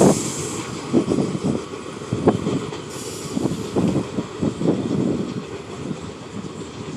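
R46 subway train rolling through the station, its wheels clattering irregularly over rail joints. A brief loud hiss sounds at the start, and the clatter thins out toward the end as the train moves off.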